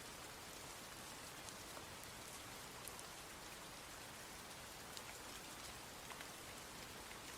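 Steady rain falling: a soft, even hiss with scattered sharper drop ticks.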